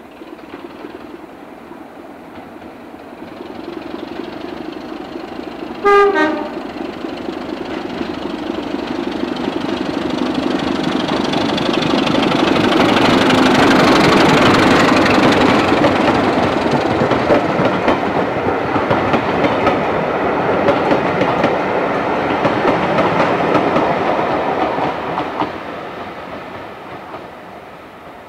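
A train passing: the running noise of wheels on the rails builds, is loudest about halfway through, then fades near the end. About six seconds in, the locomotive gives one short single-note warning blast, the loudest moment.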